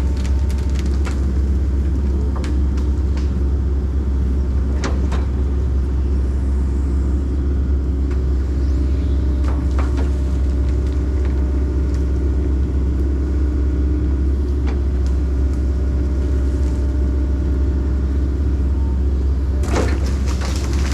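Tracked excavator's diesel engine running steadily, a constant deep rumble, with a few sharp knocks now and then.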